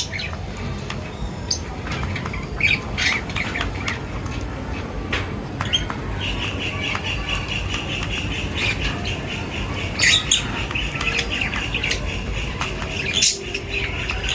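Several birds calling, with a dense run of high chattering calls from about six seconds in until about twelve seconds, and loud sharp calls near ten seconds and near the end.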